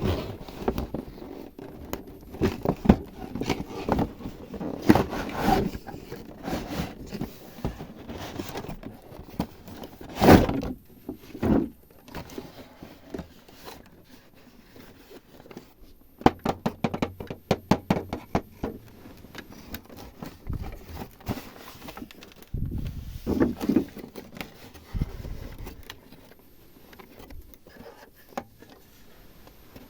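Small mini-kitchen toy pieces being handled on a surface: a string of clicks, taps and scrapes. There is a louder knock about ten seconds in and a quick run of ticks a few seconds later.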